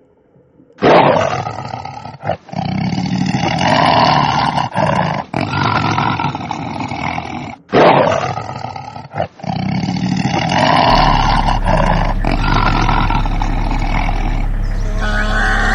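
A large animal roaring in two long bouts of rough, pulsing calls, the second starting about eight seconds in. A steady low hum joins partway through.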